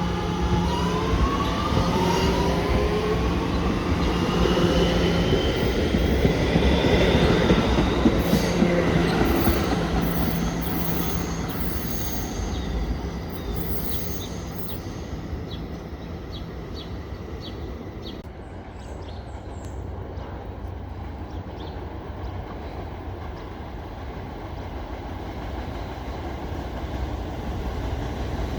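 Staten Island Railway electric train pulling out of a station, its traction motors whining upward in pitch as it accelerates. About halfway through, a run of clicks comes from the wheels over rail joints, and the sound fades as the train draws away.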